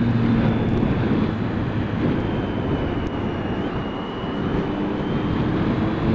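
Triumph Street Triple R's stock 675 cc inline three-cylinder engine running at highway speed, under a heavy rush of wind over the microphone. The engine note eases off around the middle and climbs again near the end.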